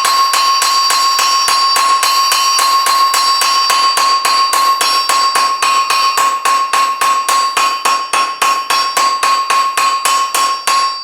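Rapid, even hammer blows, about four or five a second, of a ball-peen hammer with MIG-weld beads on its face, texturing a flat mild-steel bar on an anvil, with the anvil ringing steadily under the strikes.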